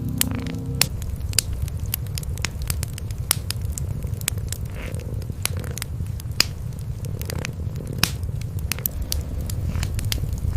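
A kitten and its mother cat purring steadily, with a wood fire crackling over them in frequent sharp pops.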